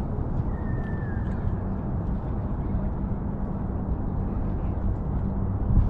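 Waterfront ambience dominated by wind buffeting the microphone, a steady low rumble over a wash of distant city and water noise. A brief faint falling whistle comes about half a second in.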